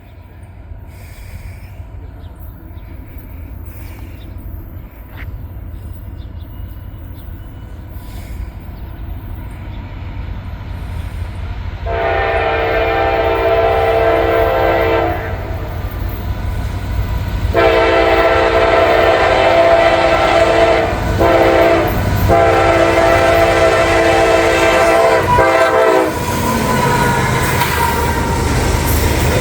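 CSX freight locomotive approaching with a rising engine rumble. About halfway through its horn sounds the grade-crossing signal: two long blasts, a short one, and a final long blast. Near the end the train's wheels clatter past.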